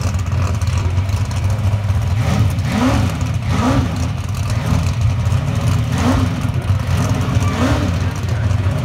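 A drag race car's engine idling with a deep, steady rumble, its throttle blipped several times, each rev rising and falling within about half a second.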